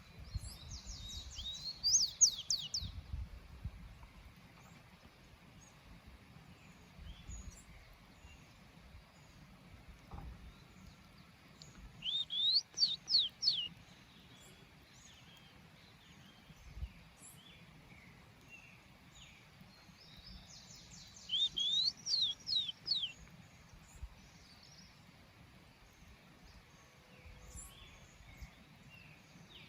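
Small songbird singing three short phrases of quick rising and falling whistles, roughly ten seconds apart, with faint chirps of other birds between them over a low rumble.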